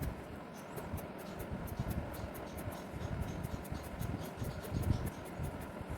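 Colour pencil scratching on paper in short, quick strokes, about four a second, as lines are drawn in dark blue.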